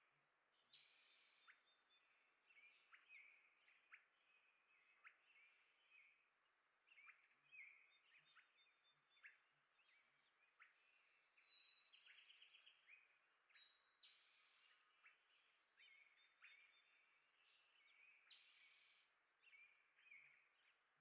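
Small birds chirping and twittering, faint: many short chirps and brief chattering phrases overlapping, with no pause.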